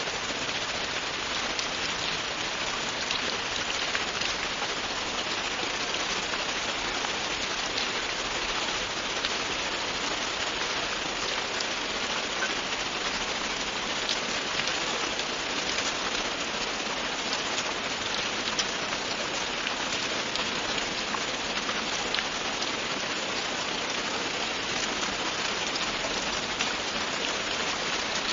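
Steady, continuous rain: an even hiss of rain falling on a surface, with fine individual drop ticks through it and no change in intensity.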